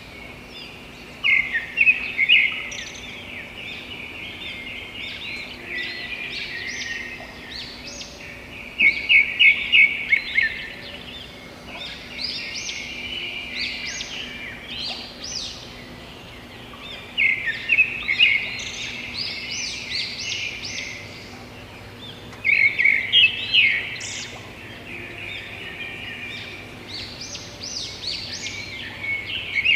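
Birds calling: loud phrases of rapid chirps repeated every several seconds, with scattered softer chirps in between.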